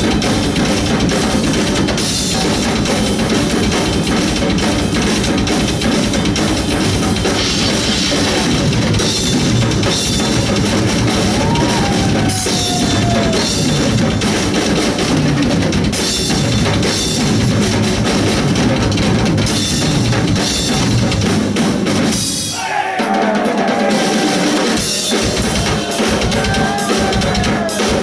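Loud live rock band playing, with a full drum kit, bass drum and snare, under dense distorted sound. The band drops out briefly about twenty-two seconds in, then crashes back in.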